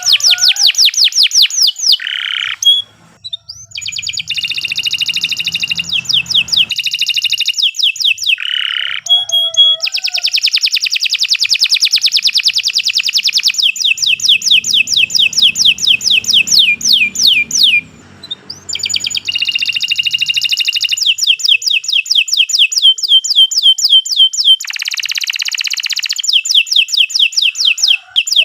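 Domestic canary singing a long, near-continuous song of rapid trills and rolls, each trill a fast run of repeated falling notes, with brief breaks about three seconds in and around eighteen seconds.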